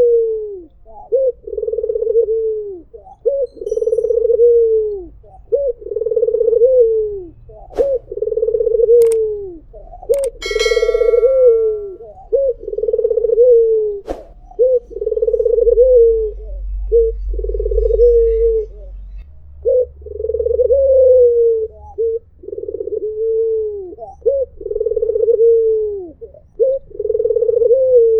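White Barbary dove (puter putih) cooing over and over: a long drawn coo about every two seconds, each bending down in pitch at its end. A short, sharp higher sound cuts in about ten seconds in.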